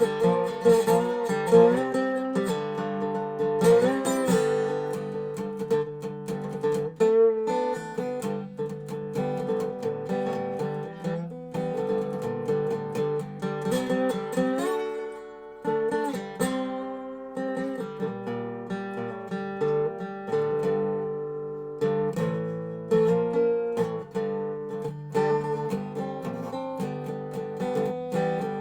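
Dobro resonator guitar played in a blues jam: picked and strummed notes over a steady ringing bass, with some notes slid up and down in pitch.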